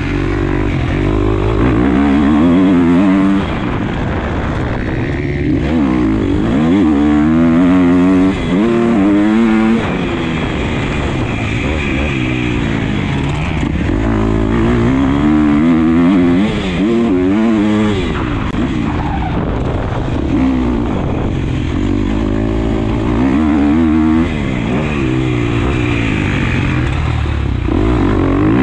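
Motocross bike engine heard from on board under hard riding, revving up through the gears with repeated rising pitch and easing off every few seconds, loud throughout.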